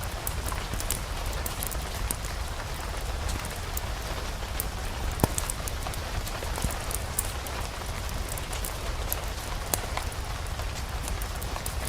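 Steady rain hiss over a low rumble, with scattered sharp pops and crackles from a fireplace fire, the loudest pop about five seconds in.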